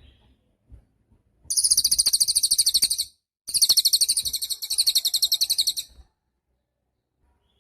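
Cililin songbird singing two long, rapid, very high-pitched trills, each lasting about two seconds and separated by a short pause.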